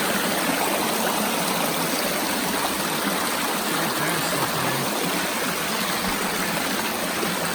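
Creek water rushing and splashing over rocks, a steady even wash of noise.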